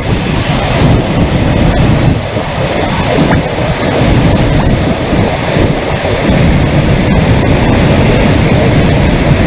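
Loud, steady rushing of floodwater.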